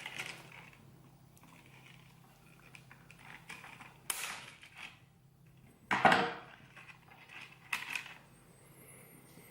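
Plastic packaging being cut open with scissors and handled: scattered clicks, snips and crinkles, the loudest about six seconds in.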